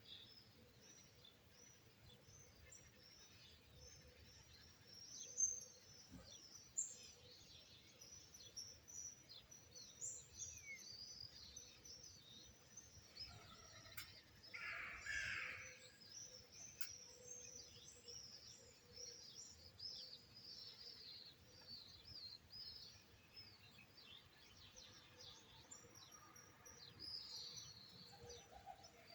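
Many small songbirds chirping and twittering together in quick, overlapping high notes, with one louder, lower call about halfway through.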